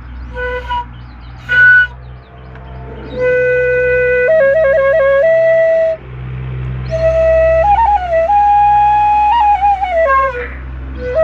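A flute played as a solo tune: a few short notes at first, then a melody of held notes with quick trills, with a brief pause about six seconds in.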